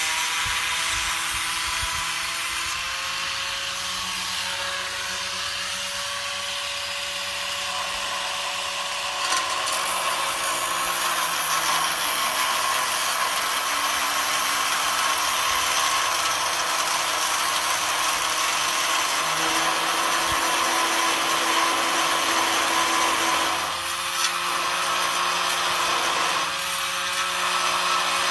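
Power tool running continuously under load, a steady whine over a dense hiss, its pitch shifting slightly as the load changes and easing off briefly twice near the end.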